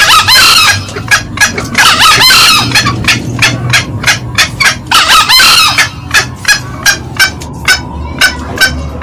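Green junglefowl calling: three short crows about two to three seconds apart, over a steady run of short, sharp cackling notes at about three a second.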